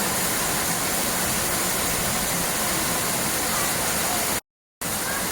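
Steady rushing noise, with a brief complete dropout to silence about four and a half seconds in.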